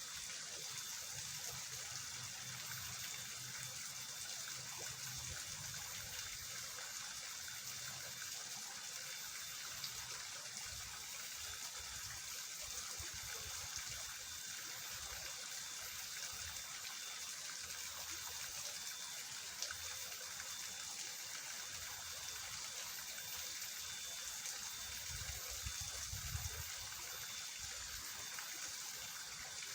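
Swollen drainage ditch running fast after heavy rain, a steady rush of flowing water.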